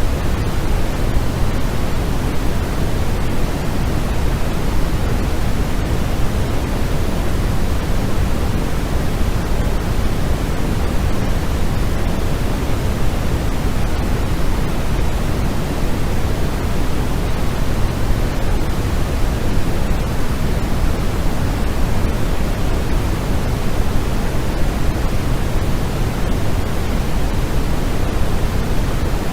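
Continuous synthetic noise used as a sleep aid: an even, unchanging hiss and rush with most of its energy in the bass, thinning toward the treble, like pink noise.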